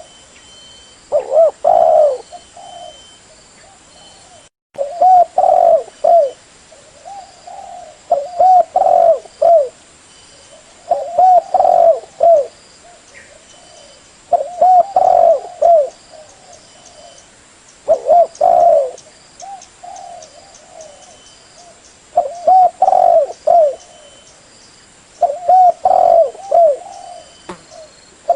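Spotted dove (terkukur) cooing: loud phrases of several short coo notes, repeated about every three and a half seconds, eight times.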